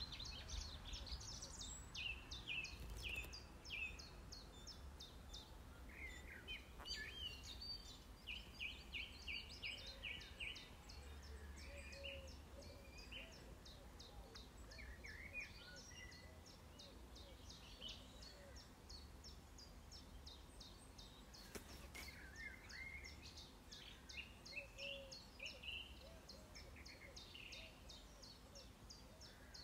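Faint songbirds chirping and singing, one of them repeating a short high note a few times a second through most of it, over a low rumble of outdoor background noise.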